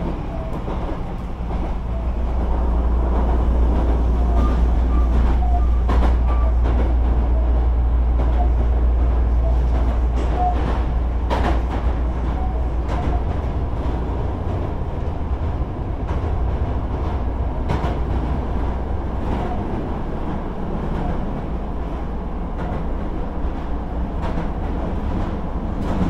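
Hankyu electric train running: a steady low rumble with a few sharp clicks of the wheels over the rails.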